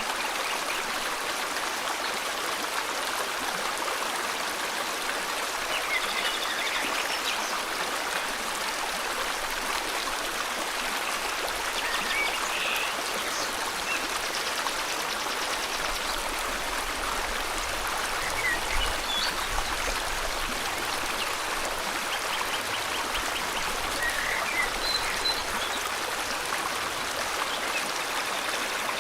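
River water flowing in a steady rush, with a few short bird chirps and quick trills now and then over it.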